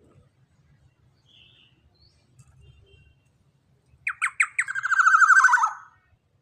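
Young black-naped oriole calling: about four seconds in, a few quick falling notes run straight into a rapid harsh rattle lasting about a second and a half.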